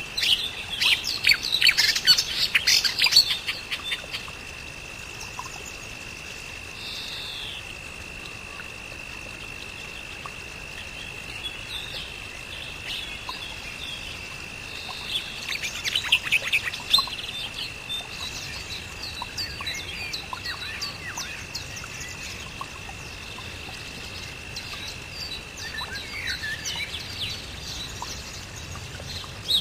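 Birds chirping and singing, in quick clusters of calls near the start and again around the middle, with scattered calls in between. A steady high tone runs underneath.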